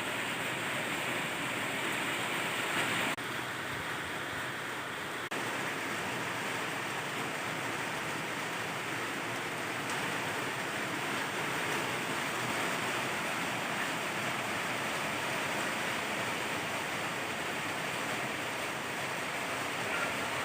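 Steady rain falling, an even hiss of many drops. It drops a little in level about three seconds in and comes back about two seconds later.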